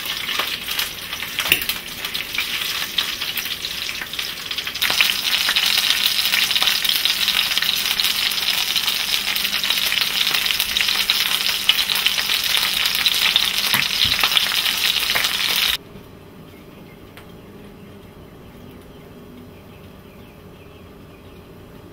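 Chicken breast frying in hot oil in a cast-iron skillet: a steady sizzle that grows louder about five seconds in, with a couple of light knocks near the start. The sizzle cuts off suddenly about three-quarters of the way through.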